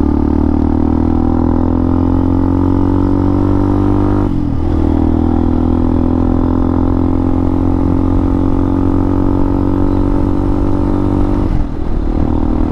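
Hawk 250's single-cylinder engine pulling hard at full throttle on the highway. Its pitch climbs steadily, dips briefly about four seconds in and again near the end as it shifts up, then climbs again.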